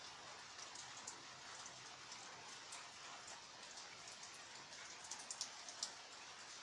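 Steady rain with scattered individual drops ticking, a few louder drips landing close together about five seconds in.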